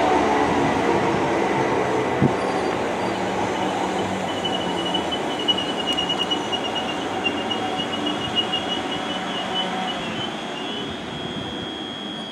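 South Western Railway Class 444 electric multiple unit running through the station at speed, its coaches rolling past with a dense rumble and clatter that slowly fades as the train goes away. About three seconds in, a thin high squeal from the wheels on the rails comes in and lasts to the end, with a single sharp click just after two seconds.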